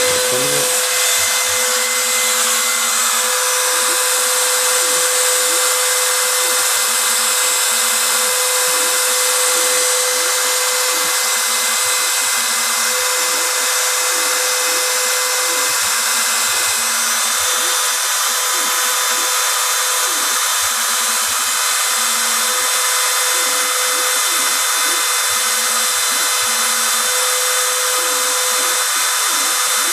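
CNC router spindle running at speed with a steady whine, engraving test lettering into the workpiece.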